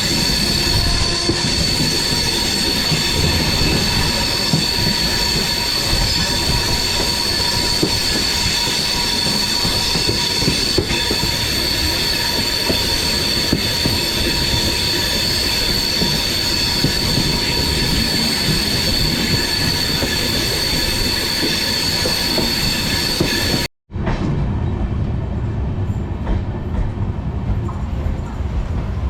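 Passenger train running at speed, heard from inside the coach: a steady rumble of wheels on rails with a continuous high-pitched whine. About 24 seconds in the sound cuts out for a moment, and after that the whine is gone and the rumble is lower.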